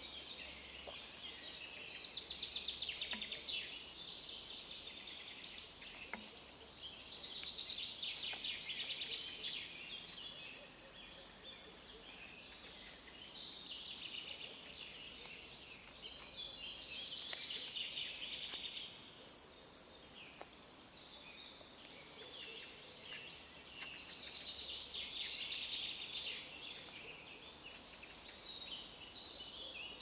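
Small songbirds singing: high, rapid trilling phrases about two to three seconds long, repeated every few seconds over a faint outdoor background hum.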